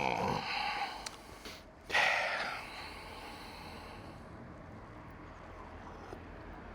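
A man's short voiced grunt, then a loud breath out about two seconds in.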